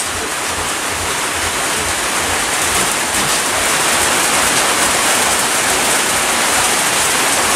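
Steady rain falling, an even, unbroken rush.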